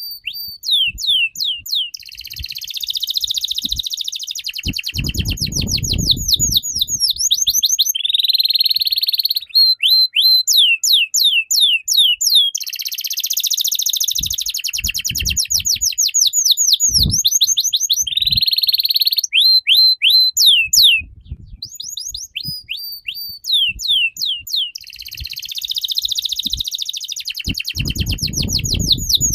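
Caged songbird singing continuously in loud phrases of rapid, repeated descending whistled notes, a few seconds each, with brief pauses between.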